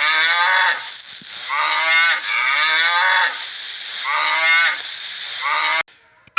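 Cattle mooing: about five short calls in a row, each falling in pitch.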